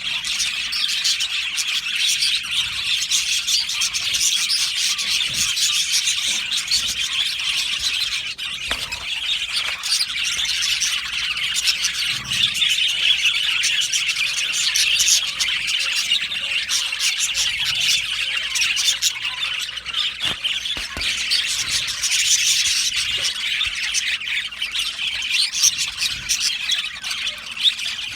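A colony of budgerigars chattering, chirping and squawking all together in a continuous dense chorus of many birds.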